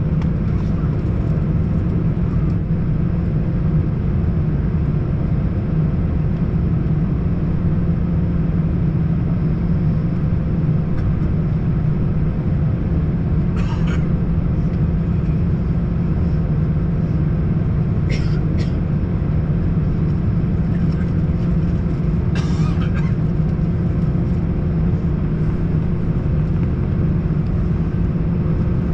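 Steady cabin noise inside an Airbus A321, its CFM56 turbofan engines running with an even low rumble and a constant hum. A few brief sharp sounds break in about halfway through and again a few seconds later.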